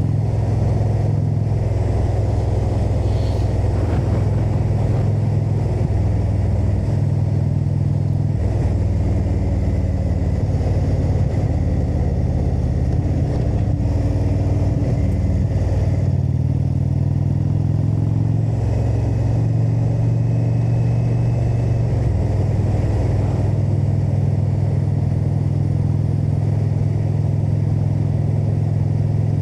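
Indian motorcycle's V-twin engine running steadily while riding on the road. Its low note shifts in pitch a few times as the speed changes.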